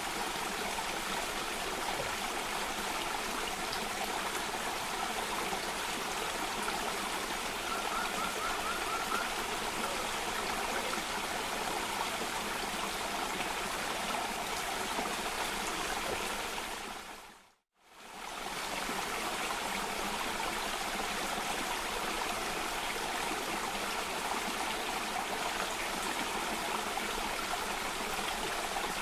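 Steady rush of a cascading stream, an even wash of flowing water. About two-thirds of the way through it fades out to silence for a moment and swells back in, like a loop seam; a brief faint trill sounds about eight seconds in.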